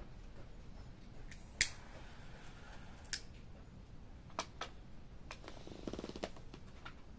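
Wood campfire crackling: scattered sharp pops over a low background, the loudest about a second and a half in. A brief rattling buzz near the end.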